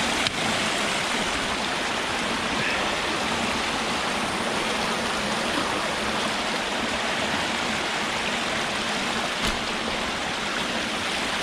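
Rain-swollen creek water rushing steadily over and through a flooded-over beaver dam, with a brief faint knock just after the start and another near the end.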